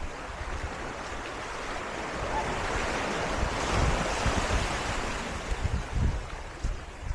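Surf washing up on a sandy beach, the wash swelling to a peak about four seconds in and easing off, with wind buffeting the microphone.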